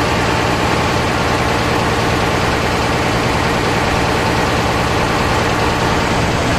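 An engine running steadily at low revs with a constant low hum.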